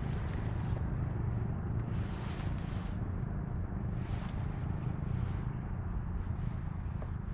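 Wind buffeting the microphone in a steady low rumble, with a fainter hiss that swells and fades every second or so.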